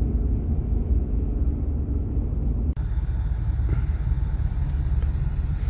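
Car driving: steady low road and engine rumble. About three seconds in, the noise changes abruptly and gets a little brighter.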